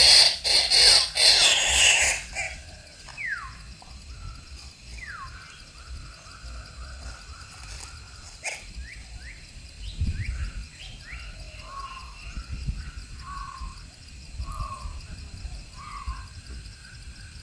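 Wild birds calling: loud, harsh calls in the first two seconds, then a string of short whistled notes that slide down in pitch, and later a few short lower notes. A faint steady high-pitched hum runs underneath.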